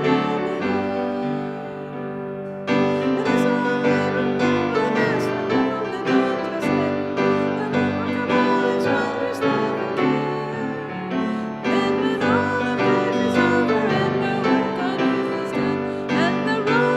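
A hymn played on piano, with voices singing along. It is softer for a moment about two seconds in, then carries on at full strength.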